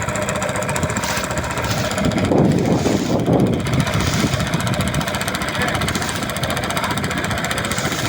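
An engine running steadily, with a rapid, even knocking beat.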